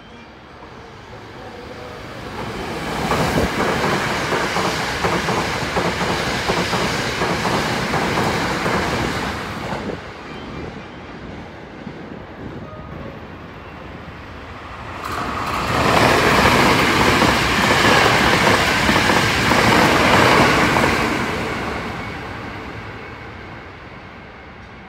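Two Hankyu electric trains passing through a station at speed without stopping. The first swells in about two seconds in and fades by about ten seconds; the second, louder one rises sharply about fifteen seconds in and dies away over the last few seconds.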